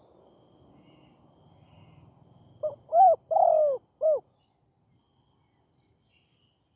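Spotted dove cooing: one phrase of four low coos starting about two and a half seconds in, a short soft note, then two loud ones, the third held longest, and a short final note.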